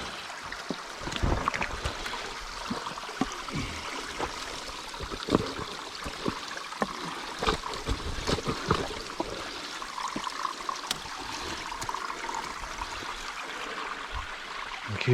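A small spring-fed stream running steadily, with scattered short knocks and scuffs over it.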